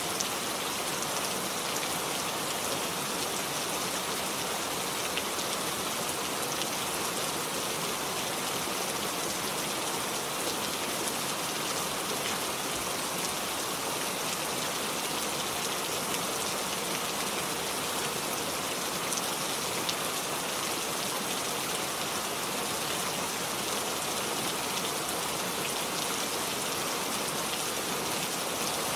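Steady rain falling, an even dense hiss with scattered small drop ticks.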